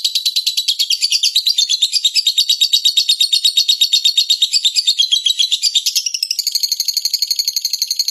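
Small songbirds chirping in a fast, unbroken run of high notes, about ten a second, switching to a different, steadier chirping pattern about six seconds in.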